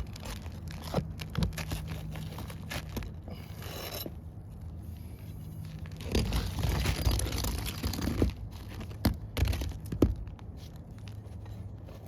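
Prying and scraping under brittle roof shingles to work loose a stubborn nail: gritty scraping and crunching with many sharp clicks, thickest about halfway through.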